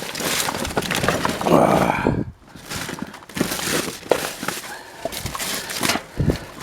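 Rummaging through trash in a dumpster: about two seconds of dense scraping and rustling, then scattered knocks and clicks as debris is shifted and wire pulled loose.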